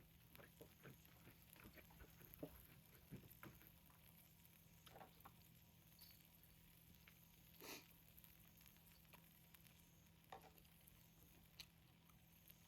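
Near silence with faint, scattered small clicks and taps, and one brief louder rustle about eight seconds in.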